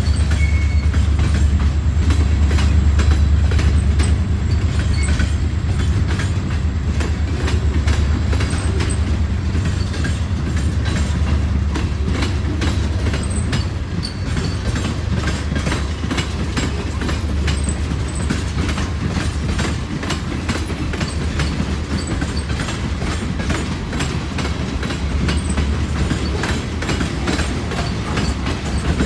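Freight cars of a manifest train (gondolas, tank cars and covered hoppers) rolling past close by: a steady low rumble with regular clicking of wheels over the rail joints.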